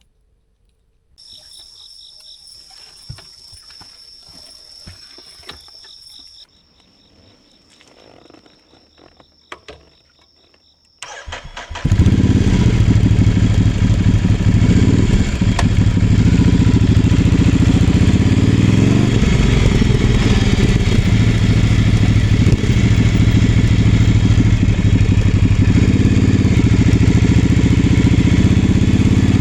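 A Ducati Scrambler 800's air-cooled L-twin, fitted with a Leovince LV-10 exhaust, cranks briefly and fires about eleven seconds in, then runs on at idle, loud and steady. Before it starts there is only a faint, steady, high-pitched trill.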